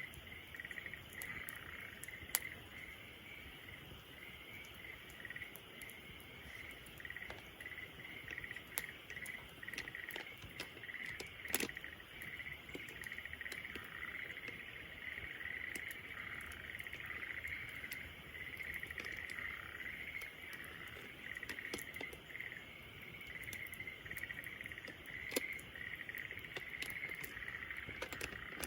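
Wood bonfire crackling with scattered sharp pops, the loudest about two, eleven and a half and twenty-five seconds in, over a continuous pulsing chirring of crickets or similar insects.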